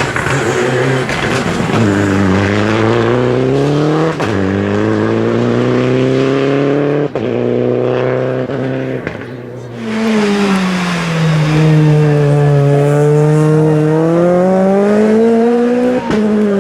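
Rally car engine at full throttle, its pitch climbing and then dropping sharply at each upshift, about four seconds apart. After a brief lull it comes back louder, the pitch dipping and rising again through a corner before another shift near the end.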